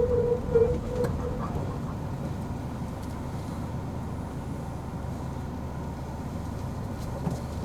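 Squeal from a Honda Odyssey RA2 with the steering wheel turned to full lock, a steady high tone that falters and stops about a second and a half in, leaving the low rumble of the car running. The cause is undiagnosed: the owner suspects a rubbing coilover or drive shaft, while Honda suspected the power steering pump.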